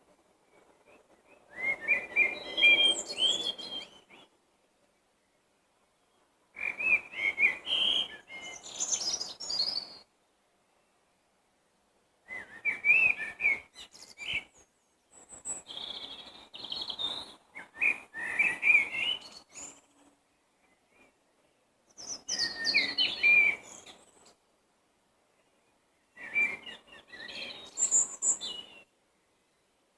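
A songbird singing in separate phrases of varied high notes, each phrase lasting two to three seconds, with pauses of about two seconds between them, about six phrases in all.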